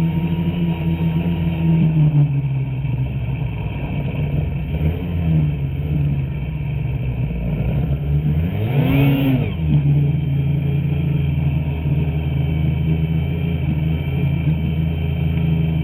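Two-stroke snowmobile engine running under throttle, with a brief rise and fall in pitch about nine seconds in.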